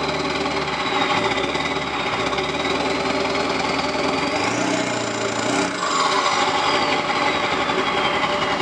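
Straight-piped 7.3 Powerstroke V8 turbo-diesel running with a steady diesel clatter through open exhaust stacks. About halfway through a high turbo whistle rises to a peak, then falls away.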